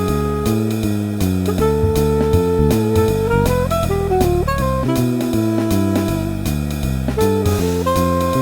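Swing jazz backing track at a brisk tempo: drum kit keeping time, a bass line and guitar chords, under a lead melody of long held notes playing the tune's theme.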